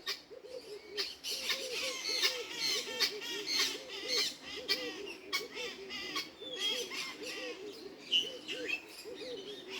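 Aviary birds calling: a steady run of low, hooting calls two or three a second, with higher chirps and squawks from other birds over it and a few sharp clicks.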